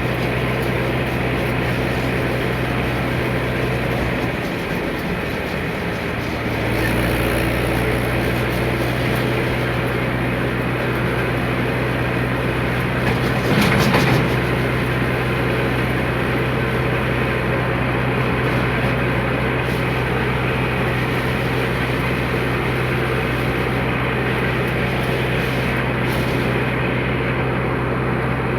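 Tractor diesel engine running steadily with a constant low hum. The low end drops briefly a few seconds in, then returns, and there is a short louder burst about halfway through.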